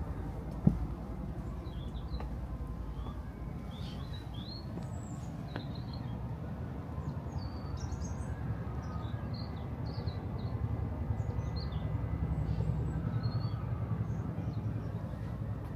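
Birds chirping in short, scattered high calls over a steady low background rumble, with a single sharp knock just under a second in.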